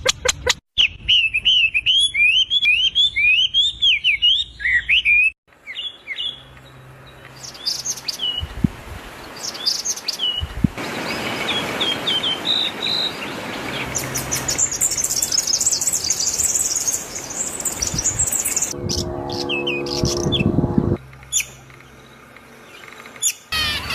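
A string of different bird calls spliced together, cutting abruptly from one to the next: rapid repeated rising chirps, scattered short chirps, a stretch of very high, fast twittering, and a brief harsher call near the end.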